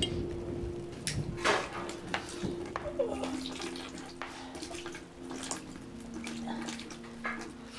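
A match struck about a second and a half in, then small crackles and rustles as a cigarette is lit, over low held notes that step down in pitch twice.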